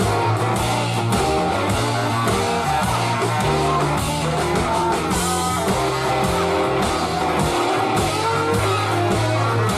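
Live band playing an instrumental groove, with electric guitar over a prominent bass line.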